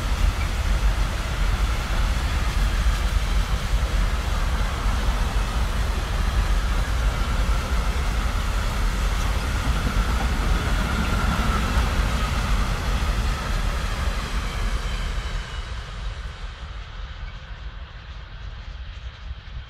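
Freight train of VTG bogie hopper wagons rolling past: a steady rumble of wheels on rail that fades away after about 15 seconds as the last wagons go by.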